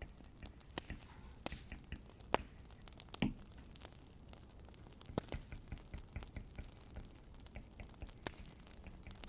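Wood fire crackling, with irregular sharp snaps and pops. The loudest pops come about two and a half and three seconds in.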